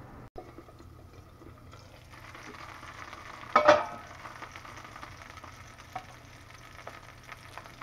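Slices of SPAM frying on low heat in a cast iron skillet, sizzling steadily, the sizzle growing louder about two seconds in as the pan is uncovered. A metal pot lid clanks down once about three and a half seconds in, and a fork taps the pan a few times near the end as the slices are turned.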